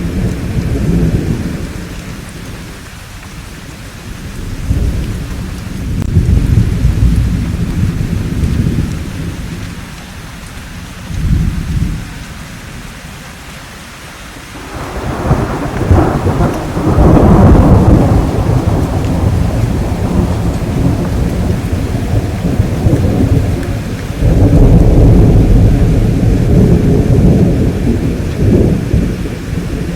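Thunderstorm: steady rain with thunder rolling again and again as long low rumbles that swell and fade. The loudest roll starts about halfway through, and another heavy one follows near the end.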